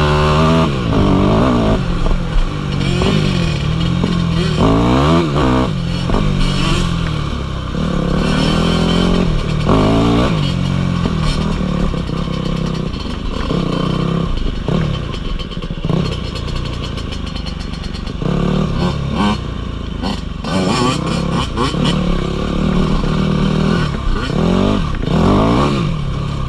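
Dirt bike engine revving up and down again and again while riding a trail, the pitch rising and dropping every second or two, with some clatter and knocks from the bike over rough ground.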